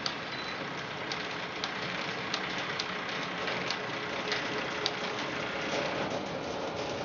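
Home-built bandsaw sawmill running steadily, with irregular sharp ticks about once or twice a second over its noise.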